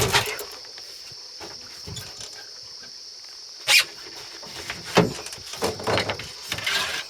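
Knocks and rustles of a caught largemouth bass being handled and laid out to be measured in a small boat: a sharp knock about four seconds in and a cluster of knocks and rustles near the end. Under them runs a steady high drone of insects.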